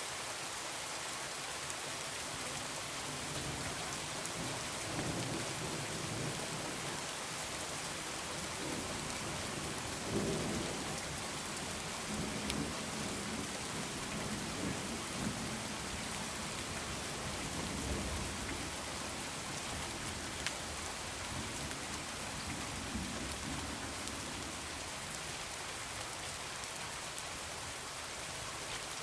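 Heavy rain falling steadily, a constant hiss, with rolling thunder rumbling low through the middle stretch, swelling twice.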